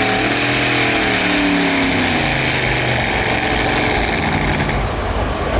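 Light modified pulling tractor's engine running hard at high revs, its pitch wavering, with the loud rushing noise easing off near the end.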